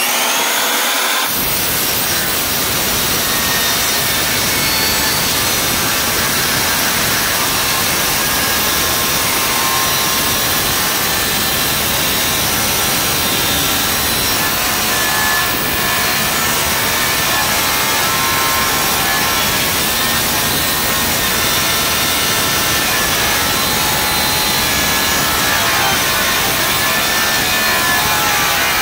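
Drill Master circular saw with a metal-cutting blade revving up, then grinding steadily through half-inch metal plate. The blade is mounted backwards, so its teeth skid and burn their way through the metal instead of cutting, which wrecks them.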